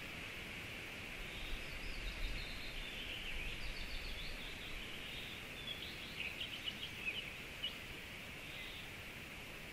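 Songbirds singing in quick runs of chirps from about a second in until near the end, over a steady hiss.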